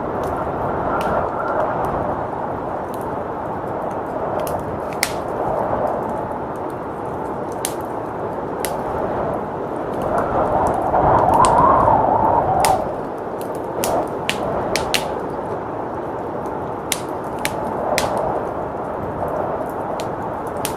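Wood fire crackling with many sharp, irregular pops over a steady rush of blizzard wind; the wind swells in a gust about halfway through, then settles.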